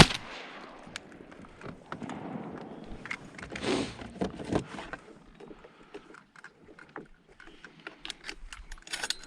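A single shotgun shot right at the start, followed by several seconds of scattered clicks, knocks and rustling.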